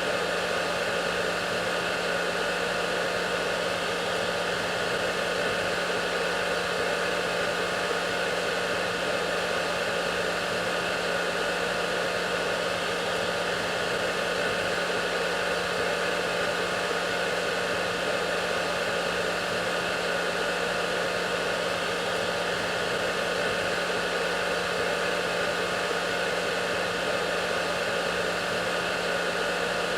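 Hair dryer running steadily: an even rush of air over a constant motor hum with a few steady whining tones, unchanging throughout.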